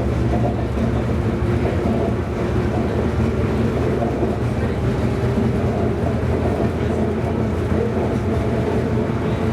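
Tram running along the track: a steady rumble of wheels on rails with the hum of its traction motors.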